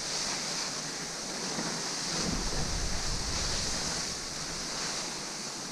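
Steady hiss of skis sliding over spring snow, with wind buffeting the action camera's microphone as a low rumble from about two seconds in.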